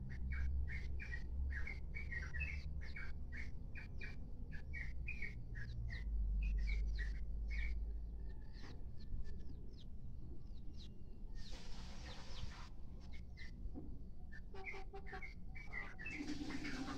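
Birds chirping in quick short calls, a few a second, with a brief rustling noise about two-thirds of the way through.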